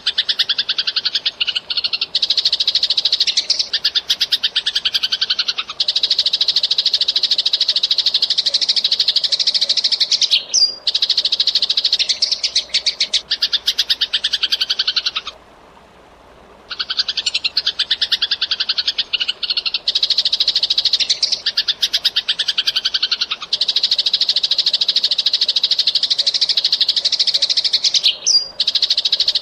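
Eurasian tree sparrows chirping rapidly and continuously, long runs of fast, high chirps broken only by short gaps, with one pause of about a second and a half a little past halfway.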